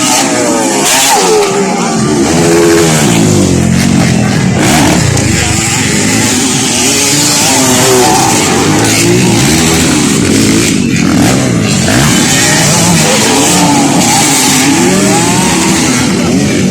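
Several motocross dirt bike engines running together, their pitch repeatedly rising and falling as they rev up and shift, overlapping one another.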